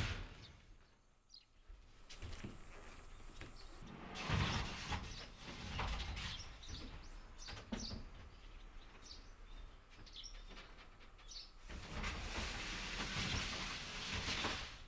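Birds chirping now and then over uneven background noise of movement and handling.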